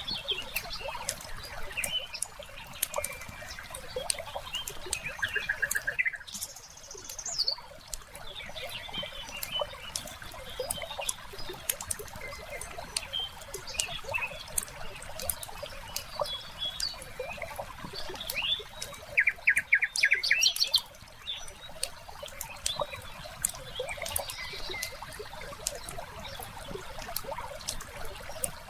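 Wood fire crackling with a steady patter of small pops and snaps. Birds chirp in short rapid trills over it, twice early on and once more loudly about two-thirds of the way through.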